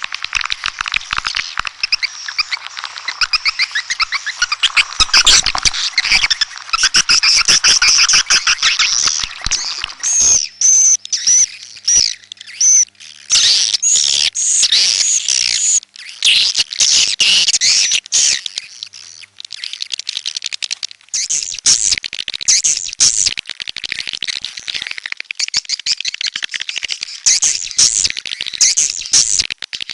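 Swiftlets calling: a dense, continuous stream of rapid high twittering chirps and clicking trills, with brief lulls about a third and two thirds of the way in.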